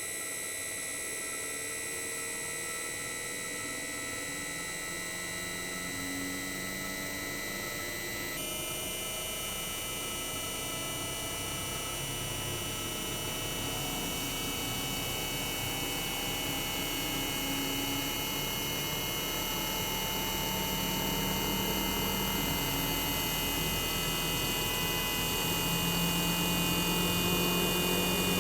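Inverter-driven twin rotary compressor (Toshiba DA91A1F-42F) of a 1998 Toshiba RAS-285LADR outdoor unit, heard bare with its sound insulation removed, ramping up: a whine of many steady electronic tones whose high tones jump to a new pitch about eight seconds in, while other tones slowly rise in pitch and the sound grows louder toward the end. This stepped pitch change is the inverter's signature at startup.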